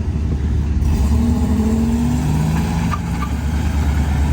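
Car engine revved by a hesitant driver: a loud, deep running rumble, with its pitch climbing from about a second in and easing off again.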